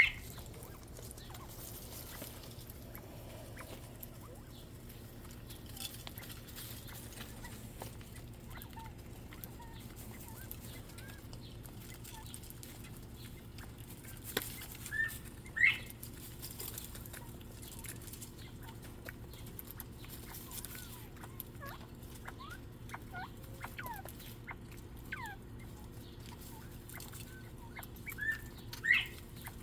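Quail in an aviary giving soft chirps and clucks, with a few louder rising calls about halfway through and again near the end, over a low steady hum.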